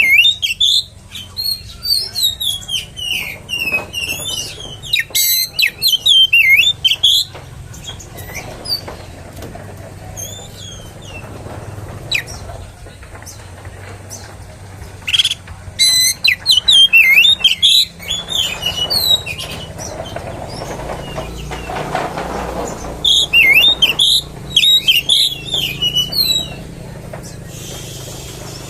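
Oriental magpie-robin (kacer) singing in loud bursts of rapid, varied whistles and chirps, with pauses of several seconds between the song bouts, over a low steady hum.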